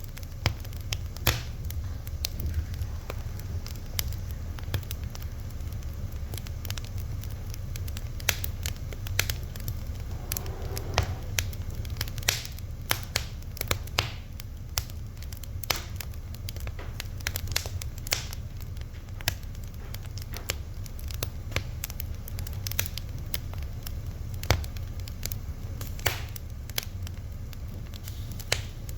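Fire crackling, with frequent irregular sharp pops over a steady low rumble.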